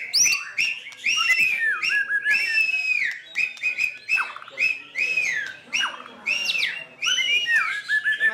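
White-rumped shama singing loudly: a fast, unbroken run of clear whistled phrases with sliding, falling notes and sharp clicks between them.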